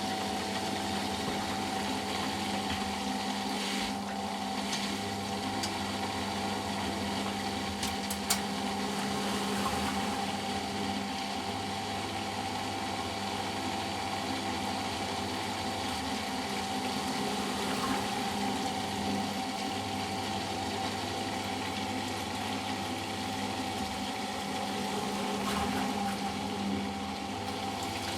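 Eudora Sparmeister 702 Classic washing machine's drain pump running steadily with a constant hum, pumping out rinse water as the first intermediate spin begins. A few light clicks come about 4 and 8 seconds in.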